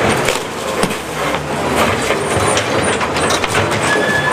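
Heavy machinery working at a demolition site: an engine running with irregular clanking and clattering of debris.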